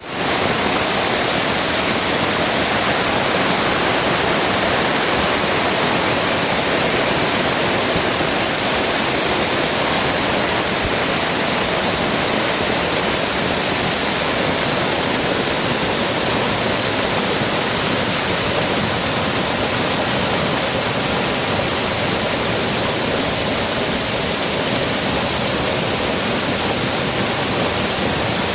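Steady rushing of heavy rain and a swollen, overflowing river, an unbroken loud hiss with no pauses.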